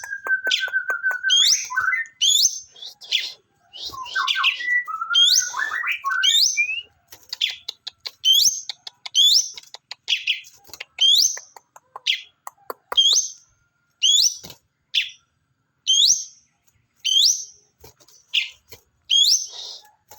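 A pet songbird calling over and over: short, high, upward-sweeping chirps about once a second, with a lower, rapid trill and a few varied notes mixed in during the first several seconds.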